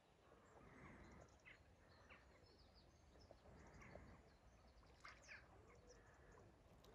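Near silence: faint outdoor ambience with a low rumble and a few short, faint bird chirps.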